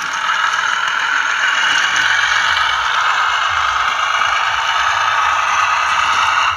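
Bachmann class 108 model diesel multiple unit running along the track: a steady rattle and whir of the wheels and motor on the rails, which drops suddenly at the end.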